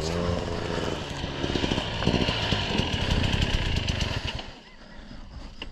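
Dirt bike engine revving up as the bike pulls away on the trail, running hard with a rough, rattly note, then fading out after about four seconds as it rides off.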